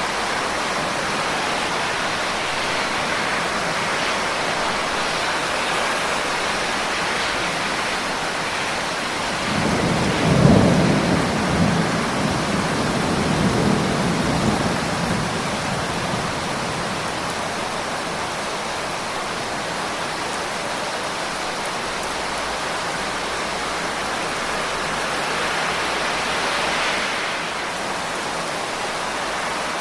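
Steady heavy rain, with a roll of thunder about ten seconds in that rumbles low for several seconds before fading back under the rain.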